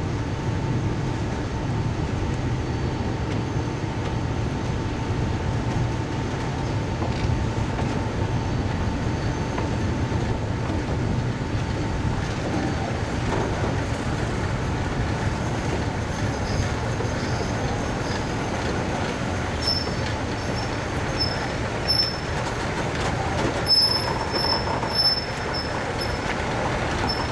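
Train with a red locomotive rumbling slowly past at close range. Short high squeals, likely from the wheels, repeat over the last several seconds.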